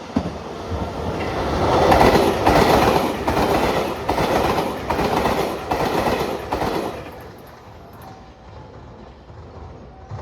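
Train running past, its wheels clacking rhythmically over the rail joints, about one and a half clacks a second. It grows loud over the first two seconds and dies away after about seven.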